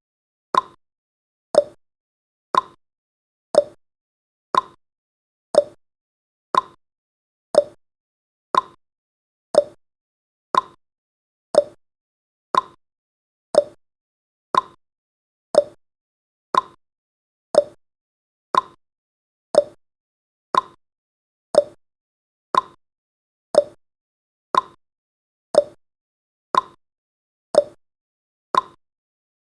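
Clock-style ticking from a countdown timer's sound effect: one short, sharp tick about every second, alternating a slightly higher and a lower tick, like a tick-tock.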